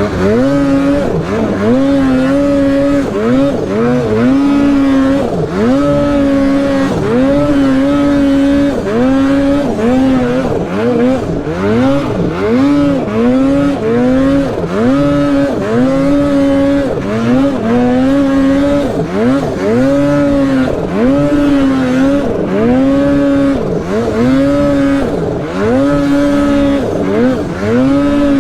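Polaris mountain snowmobile's two-stroke engine revving under riding, the throttle chopped and reapplied over and over, so the engine note dips and climbs back to a steady high pitch roughly every second or so.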